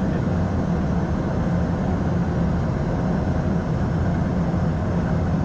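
Steady flight-deck noise of an Airbus A220-100 in flight: even airflow rush over a constant low engine and systems hum, with no change or distinct events.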